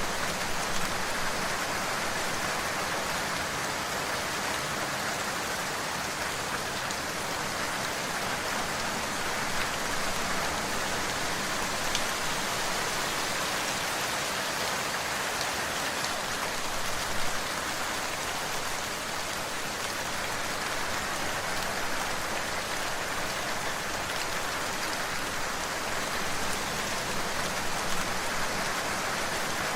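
Steady rain falling on a surface, an even hiss of many drops with a few louder single drop hits.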